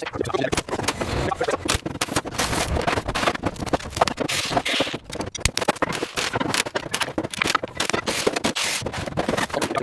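Dense, irregular scraping and clicking throughout, like rough work on a hard surface, with no steady tone.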